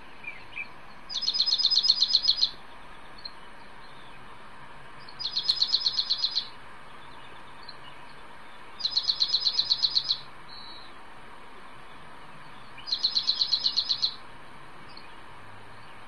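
Dark-eyed junco song played back from a recording: four rapid, even trills on one high pitch, each lasting about a second, repeated every few seconds.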